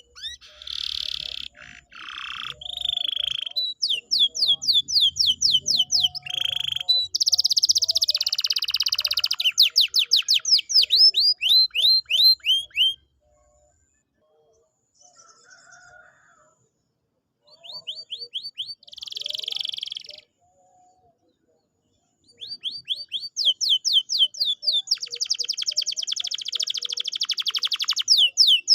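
Canary singing: fast trills of rapidly repeated downward-sweeping notes alternating with buzzy, rasping phrases, with two short pauses in the middle.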